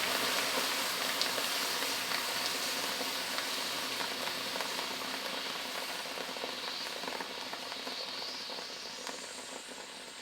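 Liquid fizzing and sizzling with many fine crackles, fading slowly.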